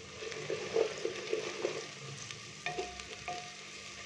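Ginger-garlic paste and chopped onions sizzling in hot oil in a clay pot while a wooden spoon stirs and scrapes through them, with two light knocks about two-thirds of the way through.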